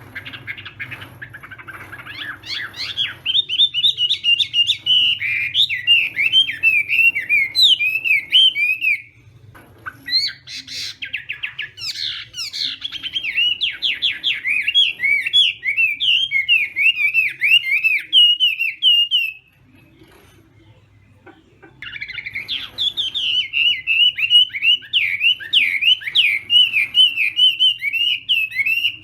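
Chinese hwamei singing in three long bouts of rapid, varied, warbling phrases, with short pauses about nine and twenty seconds in.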